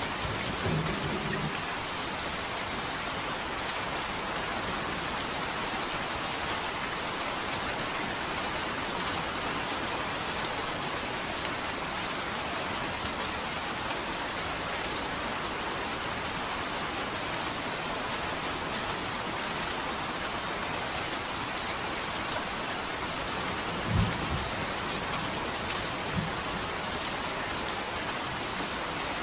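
Steady rain falling, with short low rumbles of thunder just after the start and twice near the end, the first of those two the loudest.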